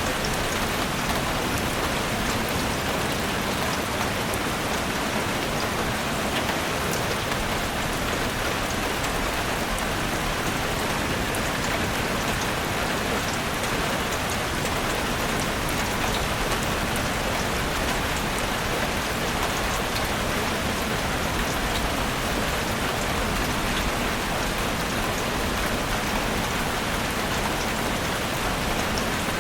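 Heavy rain falling steadily, a dense even hiss with scattered fine drop ticks.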